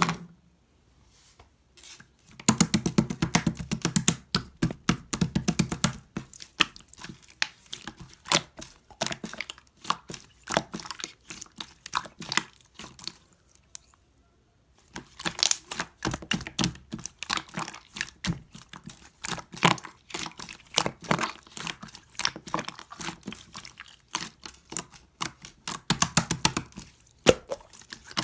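Brown glitter slime being squished and poked by hand, giving a dense run of wet crackling clicks and pops. The crackling pauses briefly about a second in and again around fourteen seconds in.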